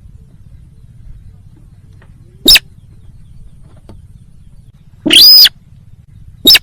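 Sintar bird lure call: three sharp, loud high calls, a short one about two and a half seconds in, a longer arching one around five seconds, and another short one near the end. A faint low hum sits underneath throughout.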